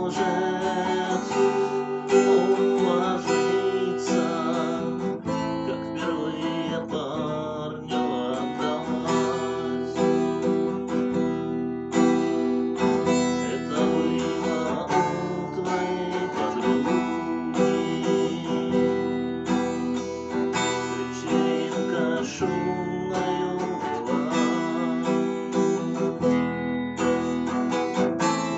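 Acoustic guitar music, strummed and plucked steadily.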